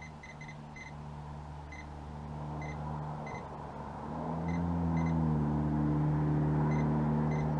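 An engine running steadily. About four and a half seconds in it gets louder and rises in pitch, as if revving up or pulling away. Short high beeps come and go over it.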